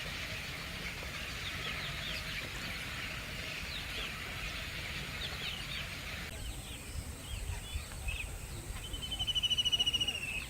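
A flock of birds calling together in a dense chatter of short chirps, over a low rumble. About six seconds in, the sound changes abruptly to sparser calls. Near the end one bird gives a loud, rapid trill of about a second and a half, falling slightly in pitch.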